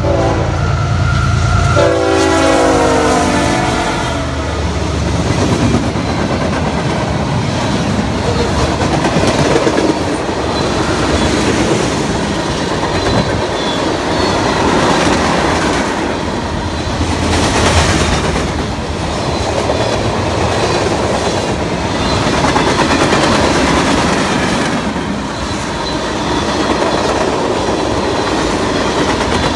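CSX freight train passing close by. The lead locomotives sound their horn for about four seconds, its pitch dropping as they pass about two seconds in, over a low engine rumble. Then the long string of tank cars and other freight cars rolls past in a steady, loud rush of wheel and rail noise.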